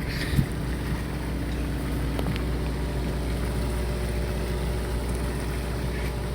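Fishing boat's engine running with a steady low drone, with a short knock about half a second in.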